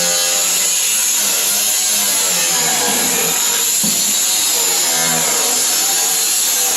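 Angle grinder with a cutoff wheel running steadily at full speed and cutting through sheet steel, a loud, even, high-pitched hiss and whine.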